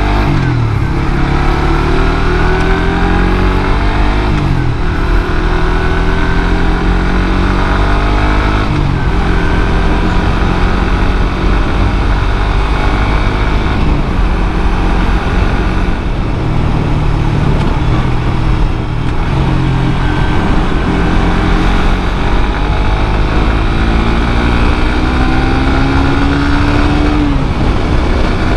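Suzuki GSX-R150 single-cylinder engine through its stock exhaust, climbing in pitch and dropping back sharply several times, as when shifting up through the gears under acceleration; the last climb near the end is the longest. A steady rush of noise runs beneath it.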